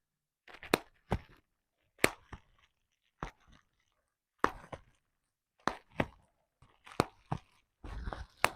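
Bubble wrap popping: single sharp pops at irregular intervals, about one every half second to second, with the crinkle of the plastic sheet handled between them.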